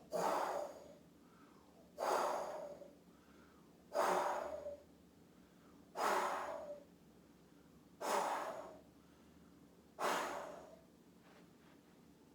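A person makes six forceful breath-out sounds through a mouth shaped into an O, from the back of the throat, one every two seconds. Each starts sharply and fades over under a second. This is the qigong healing sound for the spleen.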